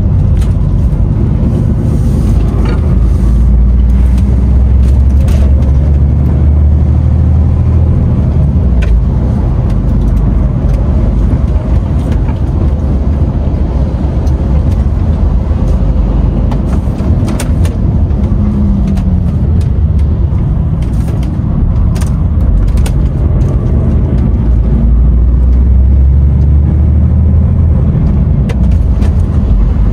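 DAF XF 510 truck driving on the road: a steady, loud low diesel drone with road noise, swelling a little twice, with scattered light clicks and knocks.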